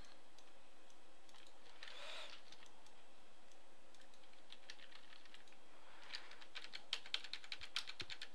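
Computer keyboard keys pressed, faint scattered clicks at first, then a quick run of key taps in the last two seconds.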